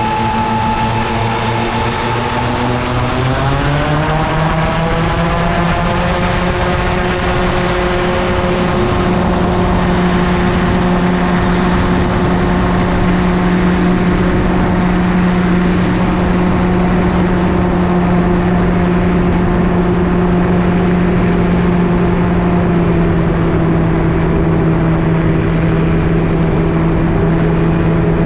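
Gyroplane's engine and pusher propeller opened up, the engine note rising over a few seconds to full power and then holding a steady drone, easing down slightly near the end, with air rushing throughout.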